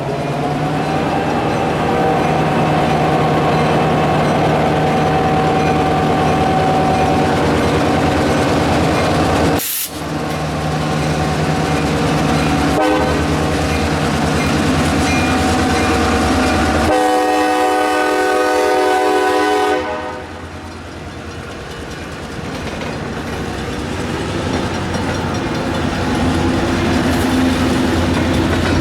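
Diesel freight locomotive running with its train rolling along the rails, and one horn blast of about three seconds starting some seventeen seconds in. The sound drops out briefly about ten seconds in.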